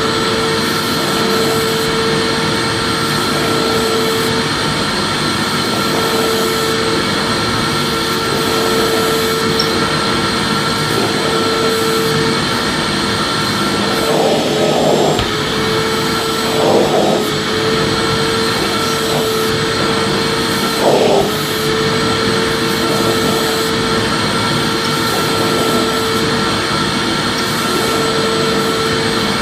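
Vacuum cleaner running steadily: an even motor hum and airflow noise with a held whine, and a few brief swells in the sound around the middle.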